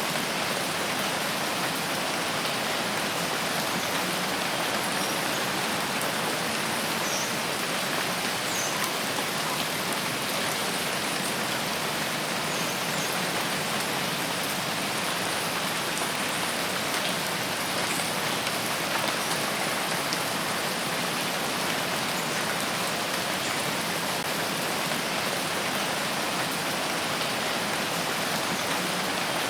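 Steady rain falling in a forest, an even, unbroken hiss, with a couple of faint short high sounds about seven to nine seconds in.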